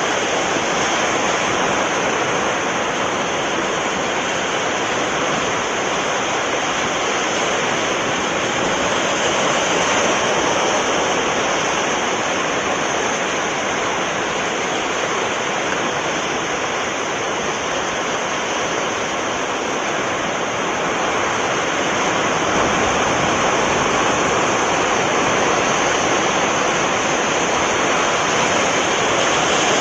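Sea surf washing continuously against the shore, a steady rush of water that swells slightly in loudness now and then.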